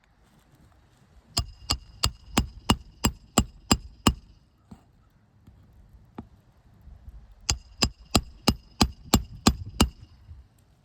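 A roofing hammer driving roofing nails through asphalt shingles: two runs of sharp, ringing strikes at about three a second, nine in the first and eight starting about seven and a half seconds in, one run per nail.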